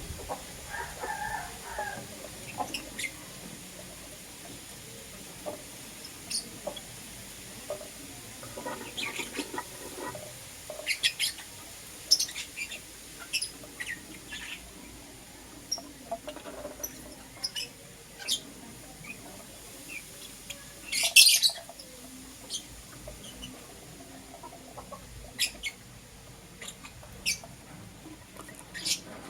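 Pet lovebirds, masked (personata) lovebirds, giving short, high-pitched chirps and squeaks at irregular intervals, with a louder burst of chirping about two-thirds of the way through.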